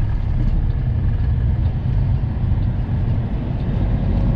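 Semi truck's diesel engine running steadily with road noise while driving, heard as a deep, even rumble inside the cab.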